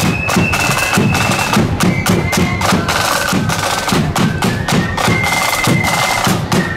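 Marching flute band playing a tune: flutes in unison on held, high melody notes over a steady beat of side drums and bass drum.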